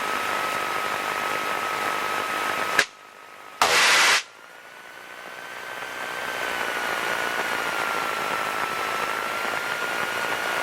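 Steady cabin noise of a Piper PA-28 Cherokee's engine and propeller in flight, with a faint steady whine over it. About three seconds in it cuts off with a click. A short loud burst of hiss follows, and then the engine noise builds back up over a couple of seconds.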